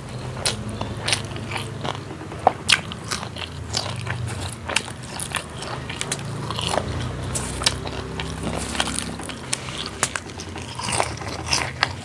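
A person chewing and crunching food, with many short, irregular clicks.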